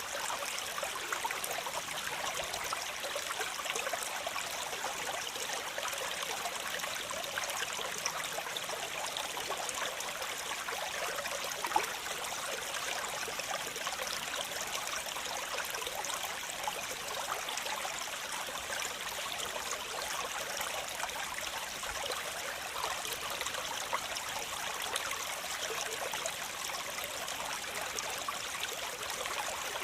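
Waterfall: water splashing and trickling steadily, with a brief louder splash about twelve seconds in.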